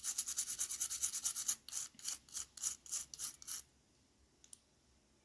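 A small brush scrubbing a removed part of a DT830D digital multimeter, to clear off the built-up dirt and oxide that is blamed for its poor contact. The strokes come quickly at first, then slow, and stop a little over halfway through.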